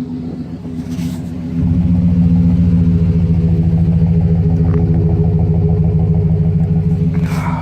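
Truck exhaust through a Flowmaster Super 10 muffler at a steady idle, a low even engine note that gets louder about a second and a half in.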